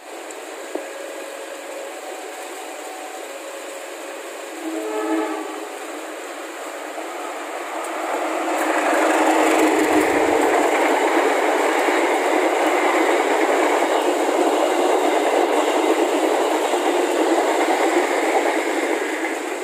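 Indonesian passenger train hauled by two CC203 diesel-electric locomotives approaching and passing close by. A short horn sounds about five seconds in. From about eight seconds the noise of the locomotives and coaches running past grows loud and stays steady.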